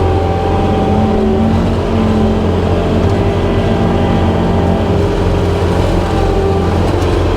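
Skid steer's diesel engine and hydraulics running steadily at working throttle, driving a brush hog attachment as it cuts through grass and brush.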